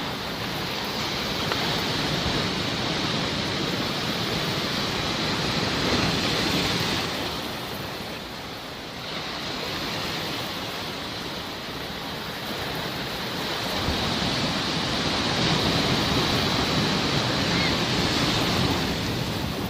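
Sea waves washing onto the shore in slow surges, swelling for several seconds, easing off about eight seconds in, then building again.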